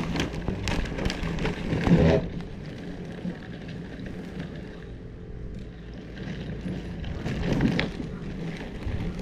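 Car engine and cabin rumble, heard from inside the car at low speed or idle, with scattered clicks and two louder swells, one about two seconds in and one near the end.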